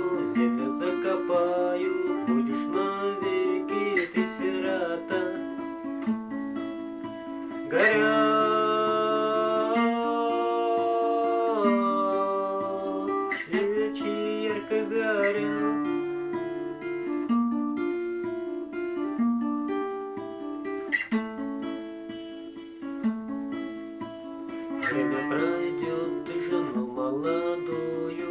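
Acoustic guitar playing a slow instrumental passage of picked notes and chords, with a louder ringing chord about eight seconds in.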